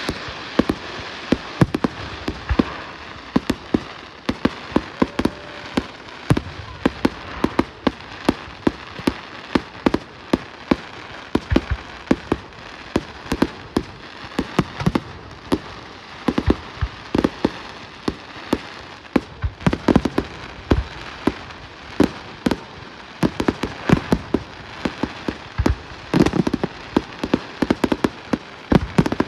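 Fireworks going off in a rapid, irregular string of sharp bangs and cracks, several a second, with no let-up.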